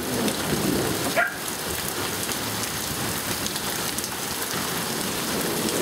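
Steady rain falling in a thunderstorm, an even hiss of rain on a surface.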